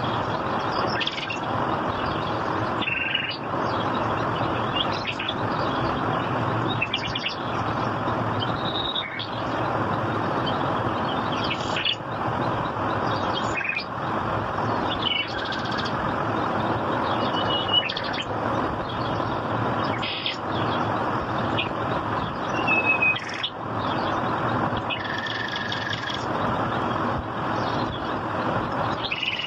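Birds chirping, with short high calls scattered throughout, over a steady rushing background noise.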